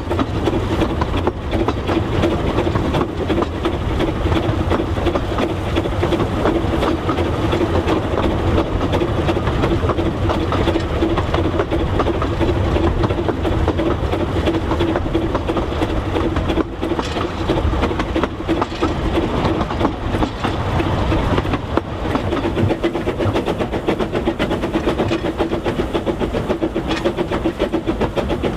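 A narrow-gauge train running steadily along the track, with a constant rumble, a steady hum and many small clicks from the wheels.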